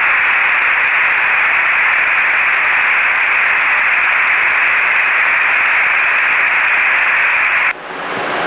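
Aircraft radio receiver hiss: a steady, loud static hiss heard over the cockpit audio while no station answers. It cuts off abruptly near the end.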